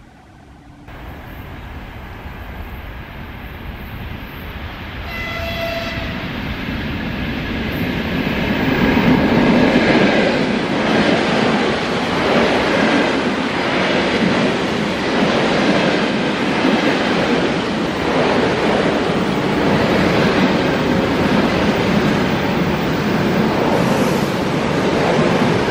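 A train approaching and passing close by, getting steadily louder and then running past with a rhythmic clatter of wheels over the rails. A short horn blast sounds about five seconds in, as it approaches.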